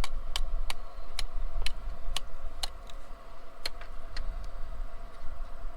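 Light hammer taps, about two a second and fading out near the end, tapping a tacked-on washer flat against a twisted-off bolt stub, over a steady low hum.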